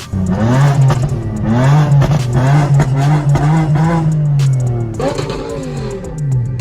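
Car engine revving several times, its pitch rising and falling with each rev, starting abruptly and loud, over background music.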